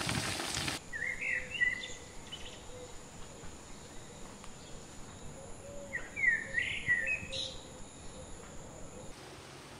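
Hot oil sizzling around a deep-frying chicken, cut off under a second in. Then a songbird sings two short warbling phrases about five seconds apart, over a faint steady high whine.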